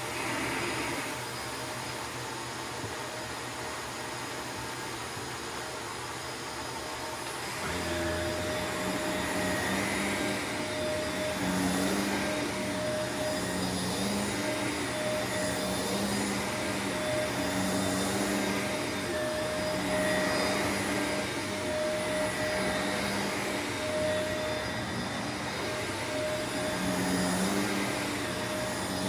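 Shark vacuum cleaner running with a steady motor whine. About eight seconds in it gets louder and starts swelling and easing every couple of seconds.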